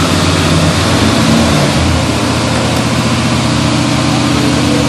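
Corvette's V8 engine running steadily at idle; its engine note shifts about a second and a half in, then holds steady again.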